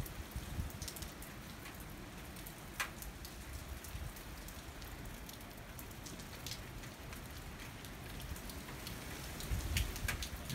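Steady rain falling during a thunderstorm, with scattered close drops hitting as sharp ticks. A low rumble swells near the end.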